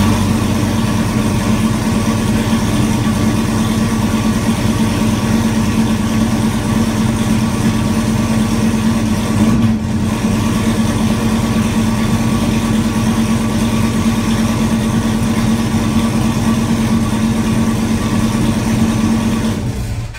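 2016 Dodge Viper ACR's 8.4-litre V10 running at a steady, loud idle through straight pipes with the mufflers removed, with one short change in the note about halfway. The engine cuts off at the very end.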